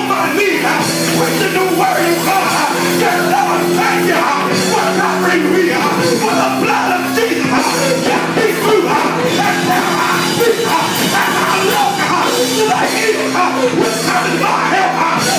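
Loud live gospel music: sustained low chords that change in steps under a dense, busy band sound.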